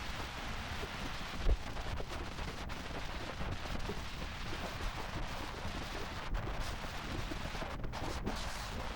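Wind rushing and buffeting over a helmet-mounted microphone on a moving motorcycle, a steady rough noise with a single brief thump about a second and a half in.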